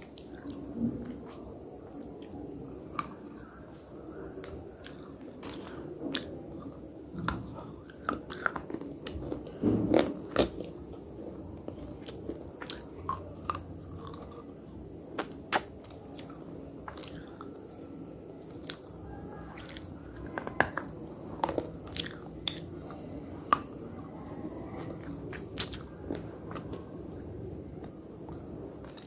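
A person biting and chewing slate close to the microphone: irregular sharp crunches and snaps between softer grinding chews.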